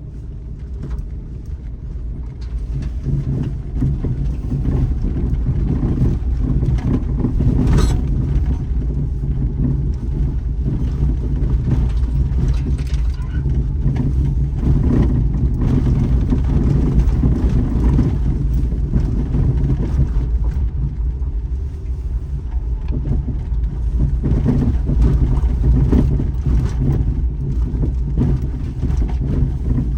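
Daihatsu Terios Kid's 660 cc three-cylinder engine running steadily as the SUV drives along a forest road, with road rumble and scattered knocks and crackles from the tyres and body over the rough surface.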